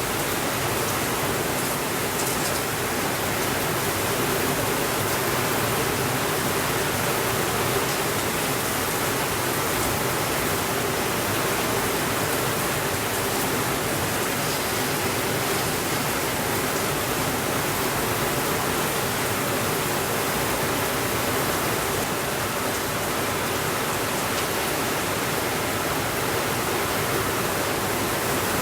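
Steady rainfall, an even hiss that holds at one level throughout with no breaks or sudden changes.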